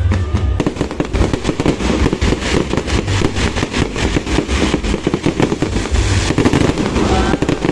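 Fireworks going off in a dense, continuous run of rapid bangs and crackling pops, with low booming underneath.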